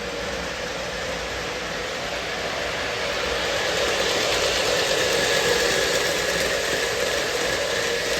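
Lionel O scale train, two Lion Chief Dash 8 diesel locomotives pulling tank cars, running on the track: a steady rumble of wheels and motors that grows louder around the middle and eases off toward the end.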